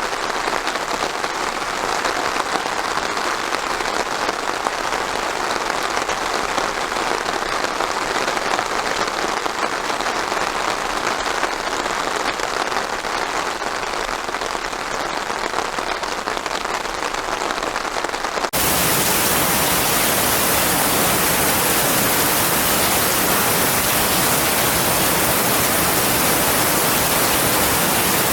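Steady rain falling and pattering on surfaces. About two-thirds of the way in it cuts abruptly to a louder, even hiss that covers low and high pitches alike.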